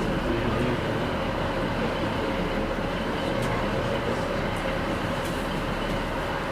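A train running, a steady rumble with a faint steady whine throughout.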